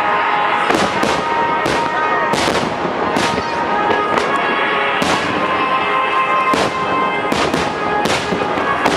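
Star mine fireworks display: shells bursting in quick succession, about one or two booms a second, over steady music.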